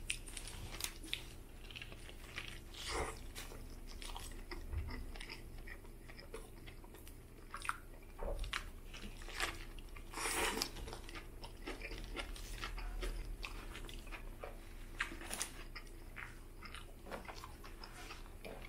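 Close-up mouth sounds of eating a Subway Italian BMT sub: crusty bread crunching under the teeth and wet chewing of meat and vegetables, with a louder bite about ten seconds in.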